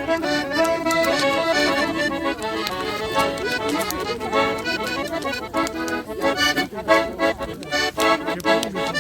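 Russian garmon (button accordion) playing a lively folk dance tune, the instrumental stretch between sung chastushka verses.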